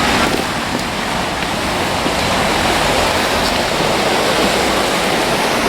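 Floodwater of a swollen river rushing through rapids at a bridge: a loud, steady rush of water.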